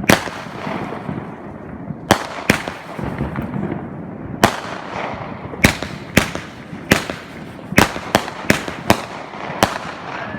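Fireworks going off: a string of about a dozen sharp bangs at irregular spacing, coming closer together in the second half.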